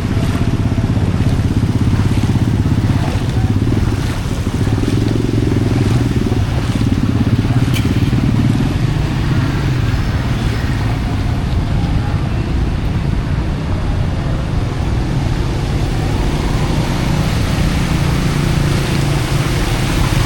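Busy street traffic: vehicle engines running close by in a continuous, steady din, with crowd voices underneath.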